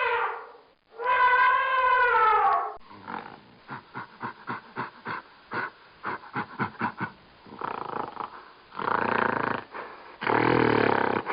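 A sequence of animal calls. First comes a long pitched call that rises then falls, then a run of short, quick calls, then rough, noisy calls ending in a loud growling roar.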